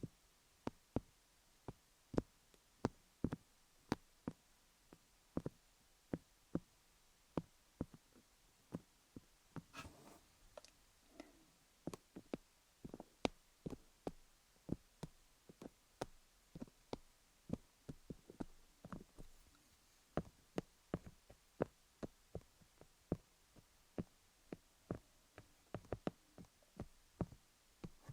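Colored pencil tapping on a dummy-head microphone studded with cubic zirconia stones: crisp, close clicks about two to three a second at an uneven pace, with brief scratchy rubbing about ten seconds in.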